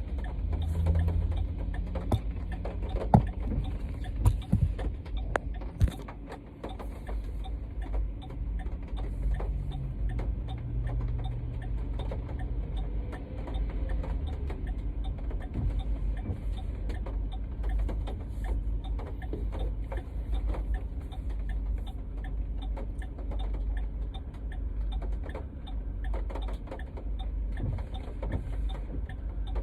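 Inside a car driving in heavy rain: a steady low engine and road rumble under a dense, irregular patter of raindrops on the roof and windshield, with a few louder knocks in the first several seconds.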